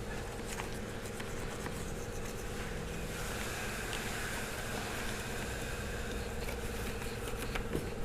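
Steady background noise with a constant low hum and a few faint clicks; a thin higher hiss rises for a couple of seconds about three seconds in.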